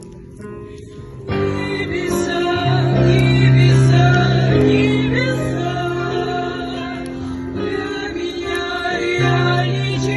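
A group of mixed male and female voices singing a Christian worship song together in harmony, with long held notes. The singing resumes after a brief pause about a second in.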